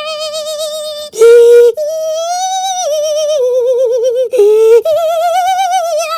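A high-pitched voice singing long, wavering notes with a wide vibrato, broken twice by short, louder, lower blasts, the first about a second in and the second near two-thirds of the way through.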